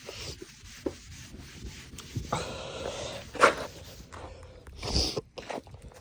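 Cleaning pad or cloth rubbing over an oxidised plastic headlight lens in irregular strokes, with two louder short bursts past the middle.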